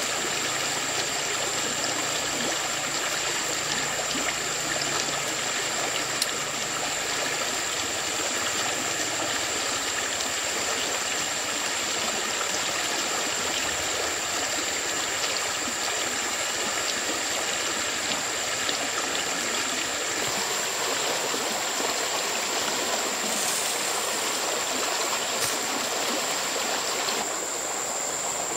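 Steady rushing of flowing water, like a stream, with a constant high-pitched whine running over it.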